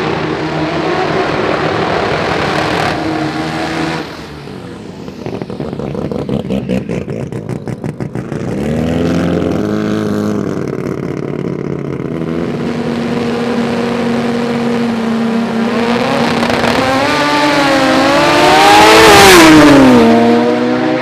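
Drag racing car engines at the strip: a loud engine runs, turns choppy and lumpy for a few seconds, then revs up. Its pitch climbs and wavers to the loudest point near the end before dropping away.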